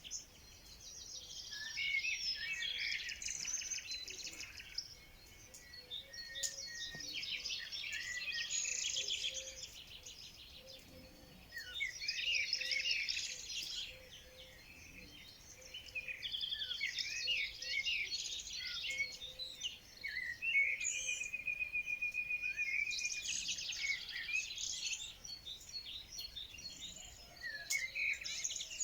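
Songbirds singing in bursts of quick chirping song a few seconds apart, with a steady trill about two-thirds of the way through.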